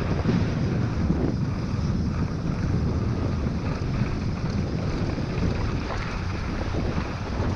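Wind buffeting a helmet- or bike-mounted GoPro microphone over the steady rumble and rattle of a Trek Remedy full-suspension mountain bike rolling fast down a dirt trail.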